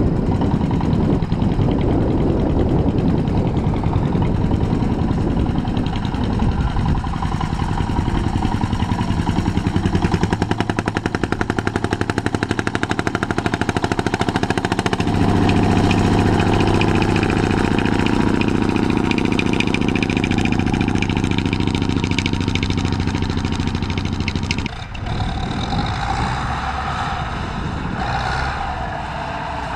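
Tractor engine running loudly with a rapid, even exhaust beat. About halfway through it settles into a steady, held high-revving note, which drops off abruptly about five seconds before the end, leaving a quieter engine running.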